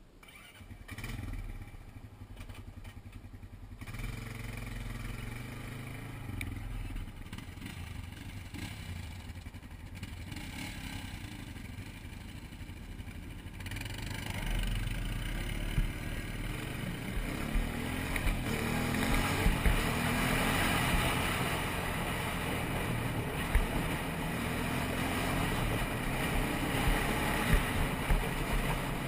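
ATV (quad) engine running on a trail ride, with wind and trail noise. It comes up about a second in and gets louder from about halfway through, the engine pitch rising and falling as it speeds up and slows.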